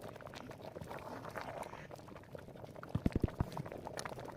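Liquid bubbling, with many small crackles and a few soft low thumps about three seconds in.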